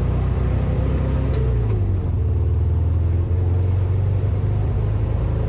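Carburetted car engine running under way on a test drive, a steady loud low note that drops slightly in pitch between one and two seconds in. The engine is still not running right after its carburettor bowls were cleaned, which the owner expects to need a full carburettor rebuild.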